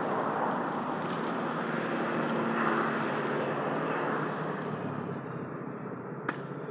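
A motor vehicle engine running steadily, with a single sharp click near the end.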